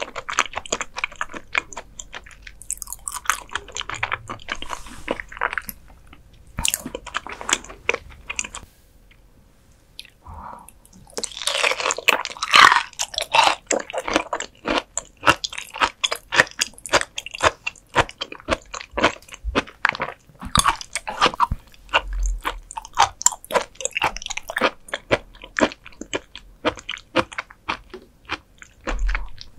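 Close-miked chewing and biting of raw beef offal: quick, wet clicks and crunches in rapid succession, with a short pause about nine seconds in.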